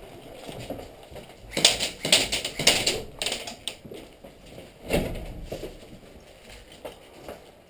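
A cluster of sharp clicks and scuffs for about a second and a half, then a duller thump about five seconds in, with a few lighter clicks after.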